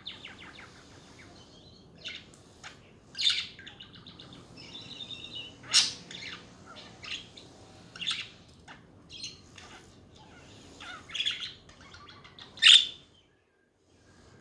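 Pet budgerigars chattering: a soft warbling with sharp, high chirps every second or two, the loudest near the end. The sound cuts out suddenly about a second before the end.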